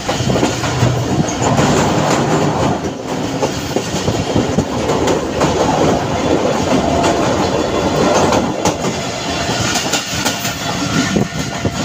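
Millet Express passenger coach running along the track, heard from its open doorway: a steady loud rolling rumble of wheels on rails with occasional sharp clacks.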